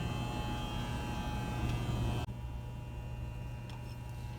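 Steady electric hum of a metal lathe's motor after a cut has stopped. About two seconds in the higher-pitched part of the sound drops away, leaving a low steady hum.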